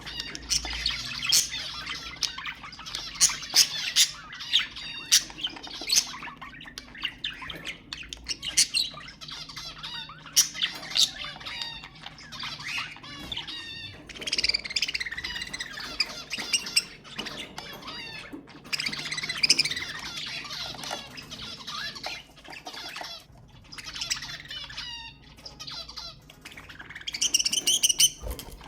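Budgerigars chattering and warbling: a dense, continuous stream of quick chirps, squawks and sharp clicks.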